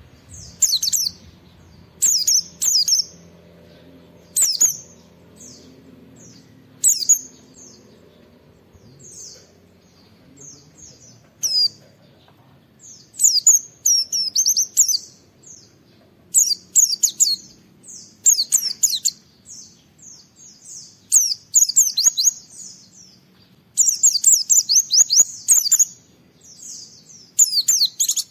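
Pleci (white-eye, Zosterops) singing in full song: short, high twittering phrases every second or two, turning into longer, denser runs of rapid notes in the second half.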